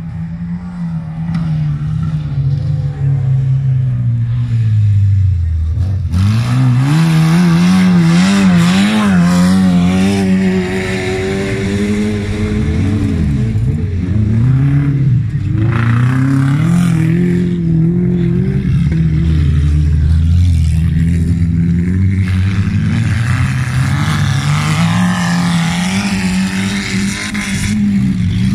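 Wreck-race cars' engines revving hard on a dirt track, the pitch climbing and falling over and over as they accelerate and ease off, dropping lowest about five seconds in.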